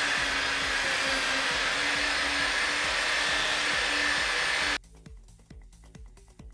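A loud, steady rushing noise from a blower-type power tool, with a faint hum, over background music with a steady beat. It cuts off suddenly near the end, leaving only the music.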